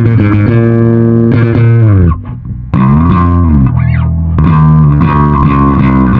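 Yamaha SBV-550 electric bass played through a Line 6 Bass POD with an effected tone, holding sustained notes. About two seconds in a note slides down and breaks off briefly, then the playing resumes with notes gliding up and down.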